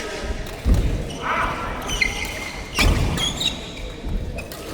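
Court sounds in a large hall during a doubles rally: two heavy thuds, about 0.7 s and 3 s in, with short shoe squeaks on the floor between them.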